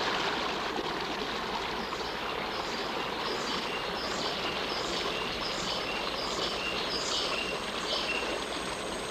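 Forest ambience of running water, with a bird giving a short high call over and over, a little faster than once a second, from about two seconds in until near the end.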